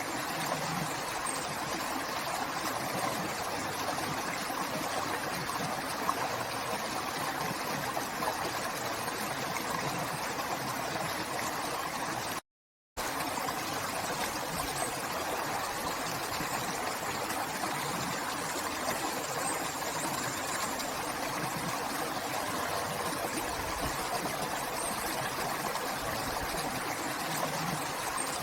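A river flowing steadily, a continuous rush of water. About twelve seconds in, the sound cuts out completely for about half a second, then resumes unchanged.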